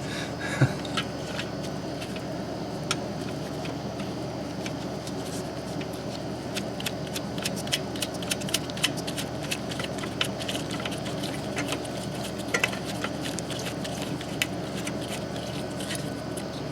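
Scattered small metallic clicks and clinks of tools and fittings being handled on an oil burner, denser through the middle, over a steady low hum.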